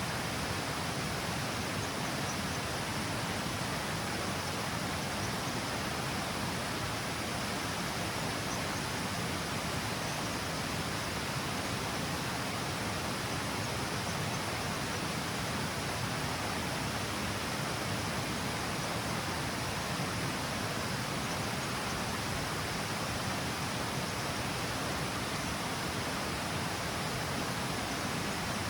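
River water pouring over a low stepped weir-like cascade, a steady even rush of falling water with no breaks.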